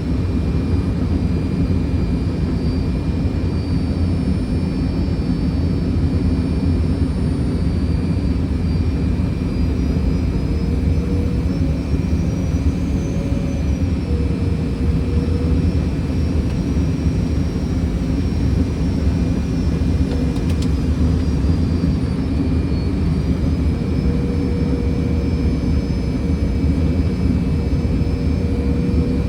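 Steady cockpit noise of a Fokker 100 airliner on final approach: a deep, even rush of airflow and engine noise from its Rolls-Royce Tay turbofans. Over it run a few thin steady tones, which drift slightly in pitch now and then.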